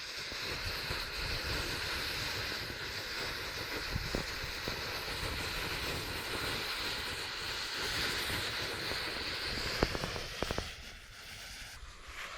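Burning pile of safety matches: a steady hissing rush of flame with a few sharp crackles, dying down near the end.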